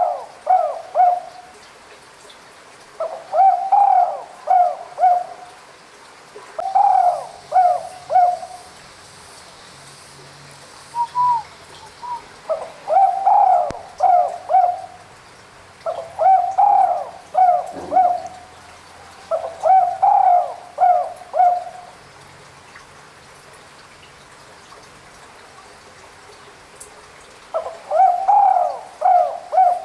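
Spotted dove (tekukur) cooing: about seven phrases, each a rising note followed by two or three short coos, repeated every few seconds, with a pause of about five seconds near the end.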